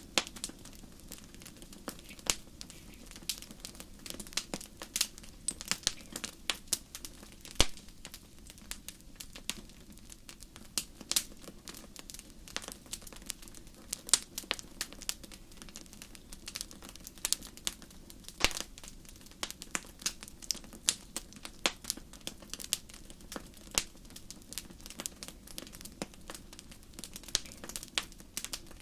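Wood fire crackling in a fireplace: irregular sharp snaps and pops, several a second and some much louder, over a low steady rush of the burning fire.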